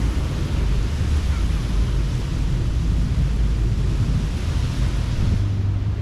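Ocean surf washing onto a beach, a steady rushing noise with a heavy low rumble from wind buffeting the microphone.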